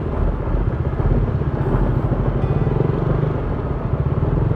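KTM Duke 200's single-cylinder engine running at low, fairly steady revs.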